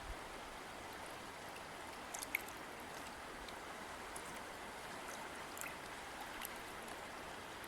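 River water flowing steadily, with a few small bright splashes or droplet ticks over the top, the clearest a little over two seconds in.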